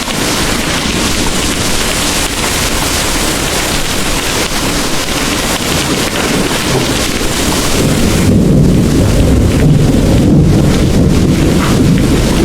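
Heavy rain pouring steadily. About eight seconds in, a low rumble of rolling thunder swells up and carries on under the rain.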